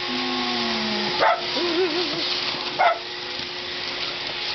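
Vacuum cleaner running steadily while small dogs bark at it, two sharp barks about a second and a half apart, with a brief wavering whine between them.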